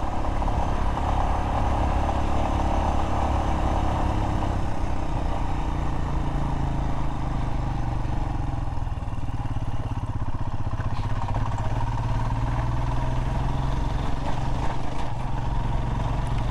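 Royal Enfield Himalayan single-cylinder motorcycle engine running steadily under way, its note shifting in pitch about five seconds in.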